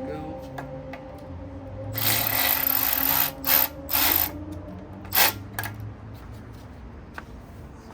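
A power tool driving bolts in: one run of about a second, then three short bursts.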